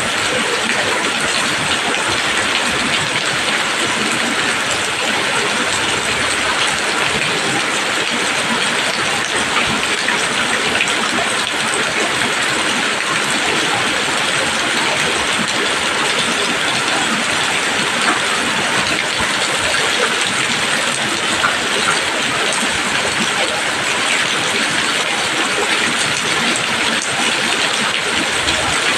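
Steady rain falling on leaves: an even, unbroken hiss of drops with no let-up.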